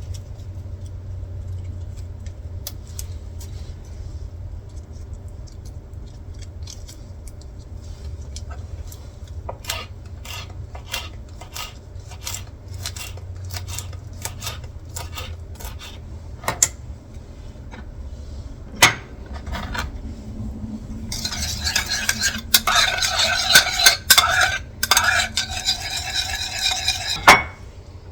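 A spoon stirring dipping sauce in a small bowl: a run of regular light taps against the bowl, then a stretch of louder ringing clinks near the end, with a few sharper knocks, over a low steady hum.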